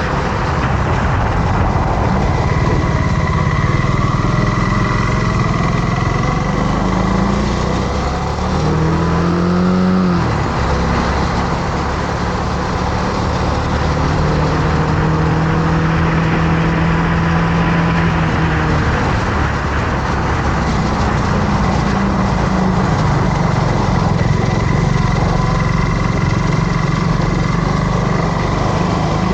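Motorcycle engine running under way over a steady rushing noise; about eight seconds in the engine pitch climbs, then drops sharply near ten seconds at a gear change, and settles to a steady pull.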